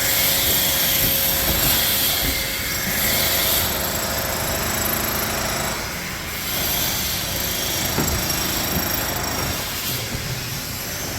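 Steady, loud construction-site and city-street din: machinery running, with a thin steady whine through it and a single knock about eight seconds in.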